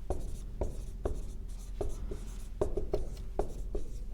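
Writing on a board: a string of short, irregular strokes, one after another, over a low steady room hum.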